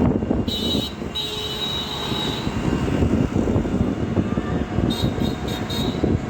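Steady low rumble of vehicle and traffic noise, with a high-pitched squeal or beep twice: a longer one from about half a second in, and a shorter, broken one around five seconds in.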